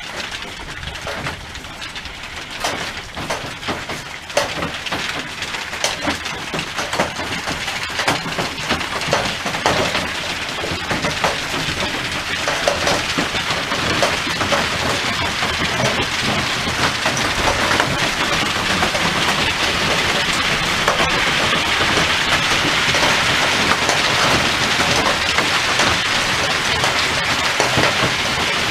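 Hailstones and rain pelting down. At first the sharp cracks of separate stones stand out, then they thicken into a dense, steady hiss that grows louder about halfway through.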